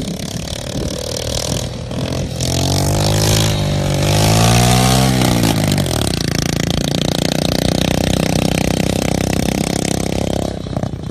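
Homemade drift trike's 225cc engine revving: the pitch climbs, dips briefly, climbs again and falls back, then the engine runs at a steady speed for about four seconds before easing off near the end.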